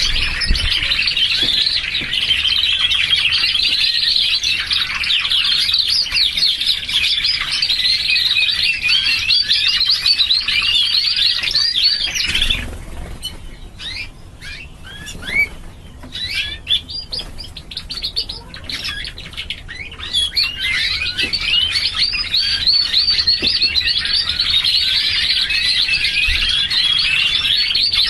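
Domestic canaries singing fast, dense rolling trills and warbles, a lure recording meant to set a silent canary singing again. The song thins out and drops away for a few seconds about halfway through, then builds back to full.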